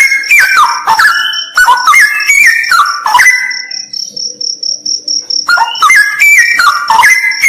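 Straw-headed bulbul singing loud, bubbling phrases that step down in pitch, breaking off for about two seconds midway and then resuming. Behind it a cricket trills in a steady, even pulse.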